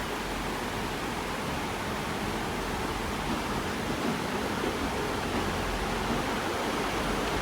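Heavy rain falling, a steady hiss with no let-up.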